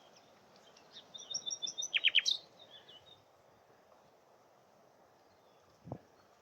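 A common nightingale sings one short phrase: a quick run of repeated high notes, then three loud sweeping notes falling in pitch and a rising note at the end. A soft knock near the end.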